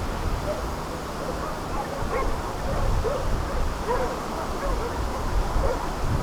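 A pack of hunting dogs barking and yelping repeatedly, with short overlapping barks scattered throughout as they chase wild boar through the reeds.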